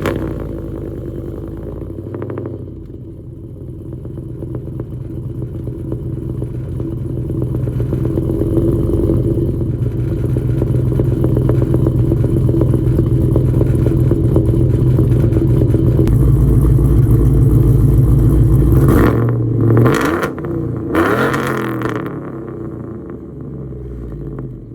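Cammed 5.3-litre V8 of a Chevy Silverado with long-tube headers, running steadily and growing louder. Near the end it is revved a couple of times, the pitch sweeping up and dropping back.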